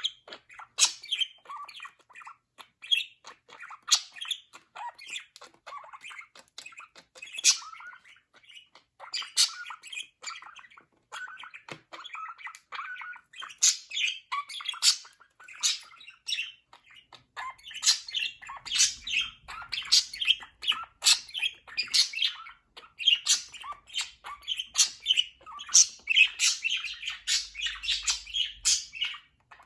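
Pet budgerigars chattering: a steady stream of short chirps and warbles, growing busier and louder about halfway through.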